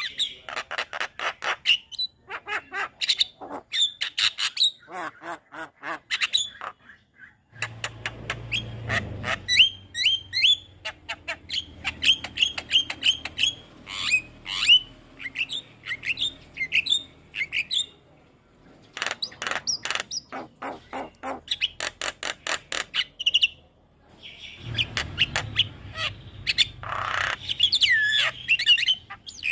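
Javan myna singing: rapid runs of harsh, chattering, squawking notes mixed with short whistles, in bursts broken by brief pauses.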